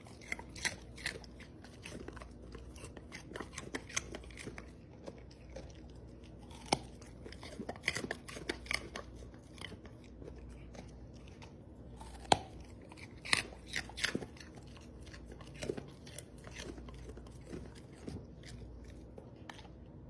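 An animal chewing crunchy food: irregular crunches and clicks over a faint low hum.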